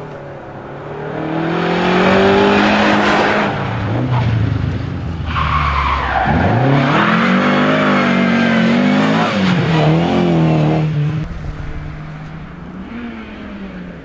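Rally car driven hard at close range: the engine revs climb, dip briefly, then surge loud again with a quick drop and recovery in pitch. It revs up and down for several seconds and fades away after about eleven seconds.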